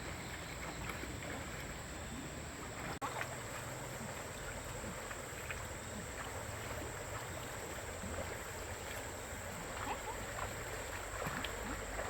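A small engine running steadily, with a brief dropout about three seconds in.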